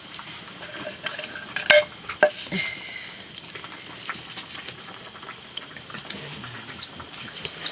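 Metal cooking pots and utensils clinking and clattering, with two sharp ringing clinks a couple of seconds in among lighter scattered clicks.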